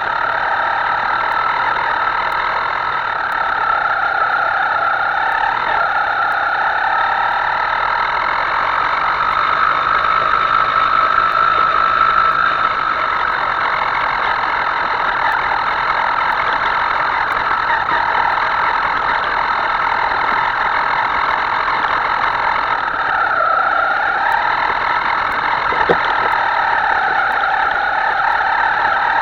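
Small motor of a Himoto radio-controlled model running steadily with a whine. Its pitch slides up and down a few seconds in and again near the end as the throttle changes.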